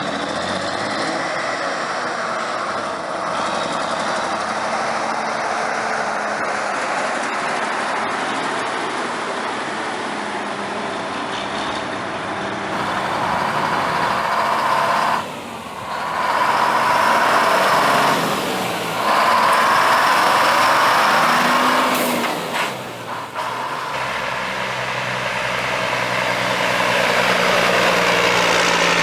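Several short clips of heavy antique trucks running loudly, with engines idling and revving. The sound changes abruptly a few times where the clips are cut together.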